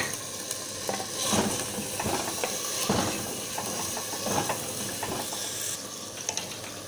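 Chicken pieces frying in oil and ghee in a clay handi with a steady sizzle, at the bhuna (frying-down) stage. A wooden spatula stirs them, with repeated scrapes and knocks against the earthenware pot.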